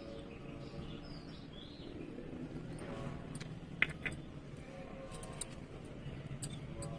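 A baby parrot giving faint, short chirps in the first couple of seconds, over a steady low hum, with a couple of sharp clicks about four seconds in.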